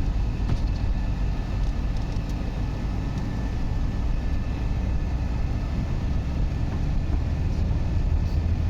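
A motor vehicle's engine running steadily, with a constant low rumble.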